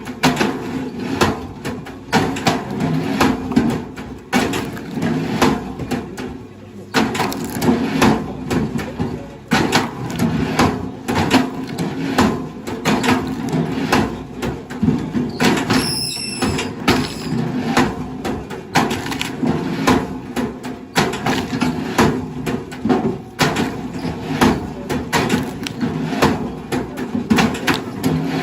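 Wood cracking and splintering over and over, with a machine's engine running steadily underneath. A short wavering squeal comes about halfway through.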